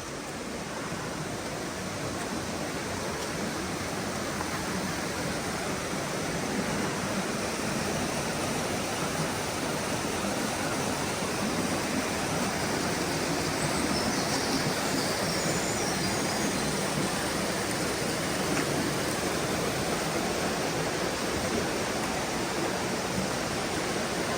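Mountain stream water rushing steadily through a rocky gorge, a continuous hiss of flowing and falling water that grows a little louder over the first few seconds.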